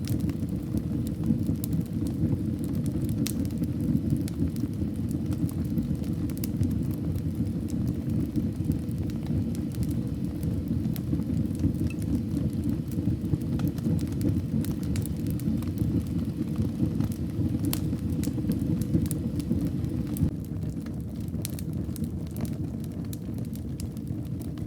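Wood fire burning in a fireplace: a steady low rumble of flames with scattered sharp crackles and pops, a little quieter about twenty seconds in.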